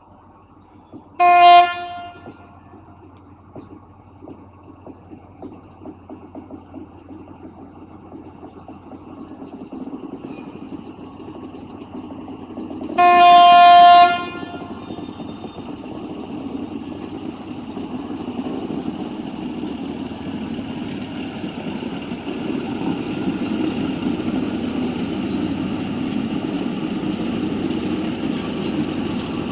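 Freight train hauled by two FEVE 1600-series diesel locomotives: the horn gives a short blast, then a longer one about twelve seconds later. After that the engine rumble of the approaching train grows steadily louder.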